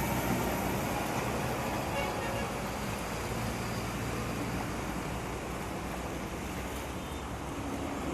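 Road traffic: vehicles passing slowly, a steady mix of engine and tyre noise with no single event standing out.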